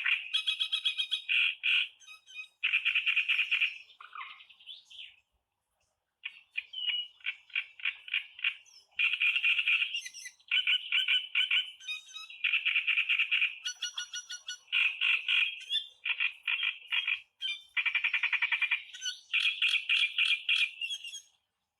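Kerak basi (reed warbler) singing: phrases of rapid repeated churring notes, each lasting a second or two, separated by short pauses, with a longer break about five seconds in.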